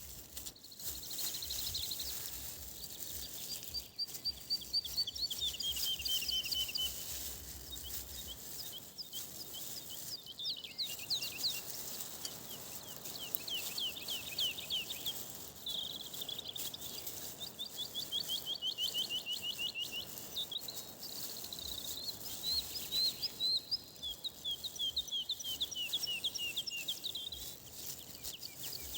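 Songbirds singing: repeated trilling phrases of quick, slurred high notes, each phrase a couple of seconds long, over a steady background hiss.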